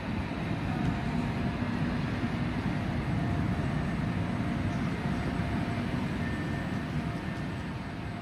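Steady low rumble and hum of a PKP Intercity ED250 Pendolino train at a station platform, with a faint steady whine riding on it, easing slightly near the end.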